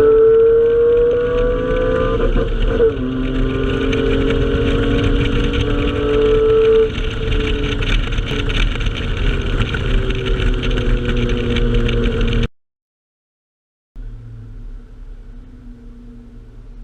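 Honda 3.2-litre J-series VTEC V6 pulling hard: its pitch rises, drops sharply at a gear change about 3 s in, and climbs again. Near 7 s the throttle lifts and the engine winds down while the car coasts. The sound cuts out suddenly at about 12.5 s and returns after a gap of a second and a half as a quieter, steady engine note.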